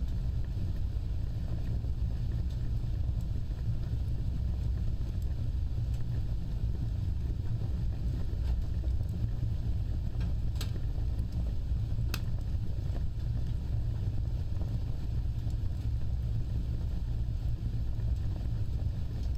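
Open fire burning with a steady low rumble of flames, with two sharp crackling pops about ten and twelve seconds in.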